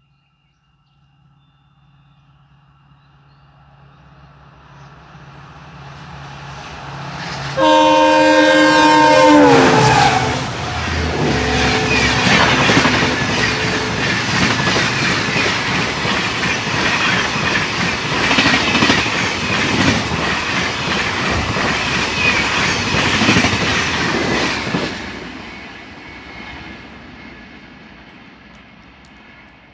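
An Indian Railways express train approaches and sounds its horn, a chord of several tones held for about two seconds that drops in pitch as the locomotive passes. The coaches then run past with a loud rumble and clickety-clack of wheels over rail joints, which fades away near the end.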